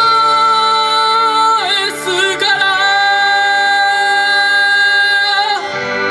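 A singer holding two long sustained notes over a pop backing track, the voice stopping shortly before the end while the accompaniment plays on.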